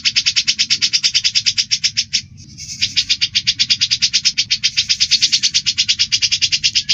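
Agitated bird chatter from a cucak jenggot (brown-cheeked bulbul) and Eurasian tree sparrows fighting: a fast, evenly repeated train of sharp chirps, about ten a second, that breaks off briefly about two seconds in and then resumes.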